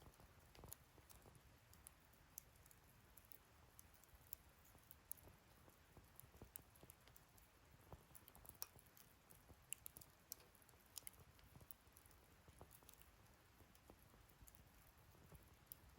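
Wood fire burning in a fire-pit stand, crackling faintly with scattered small irregular pops and ticks.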